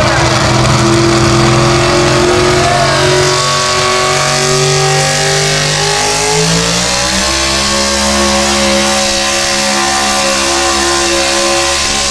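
Engine of a pulling vehicle running hard under steady load, its pitch climbing to a higher, held note a little past halfway.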